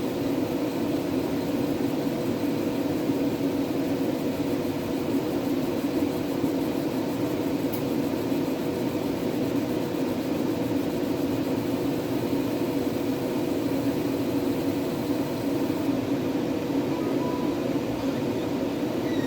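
Steady fan-like hum with a faint steady whine from a running fiber laser marking machine.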